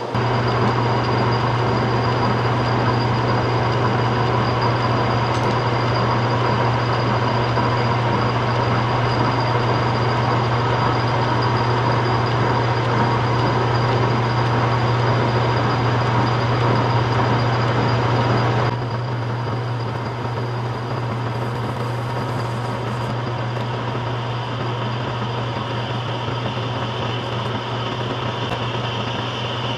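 Metal lathe running under power while a large-radius carbide insert takes a cut, with cutting lubricant applied: a steady low motor hum under a continuous cutting hiss and a thin high whine. About two-thirds of the way through the sound suddenly drops a step quieter and carries on steadily.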